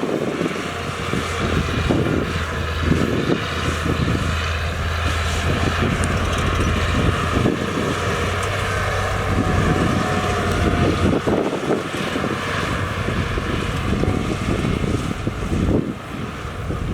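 Heavy diesel engine of earthmoving machinery running steadily, with wind buffeting the microphone; the engine's low steady note drops away about two-thirds of the way through.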